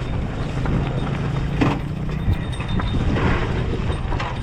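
Motorcycle engine running steadily with a deep, even rumble, with a couple of sharp knocks about a second and a half in and near the end.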